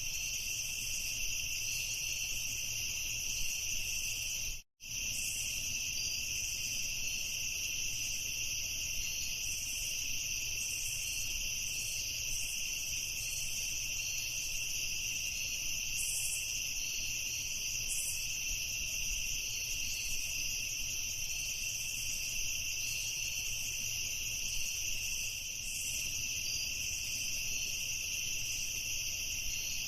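A dense, steady chorus of crickets chirping. It cuts out completely for a split second about five seconds in, then carries on unchanged.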